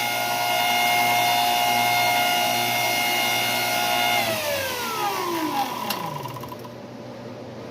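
Electric power tool motor running at a steady speed, then switched off about four seconds in, its whine falling in pitch as it spins down to a stop.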